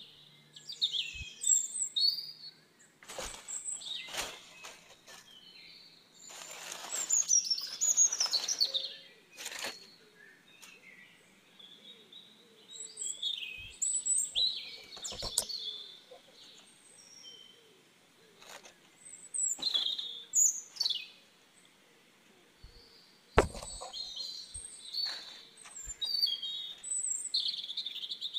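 Small birds chirping and calling over and over in short high-pitched phrases, some sweeping up or down. A few bursts of noise and a sharp knock about 23 seconds in, the loudest single sound.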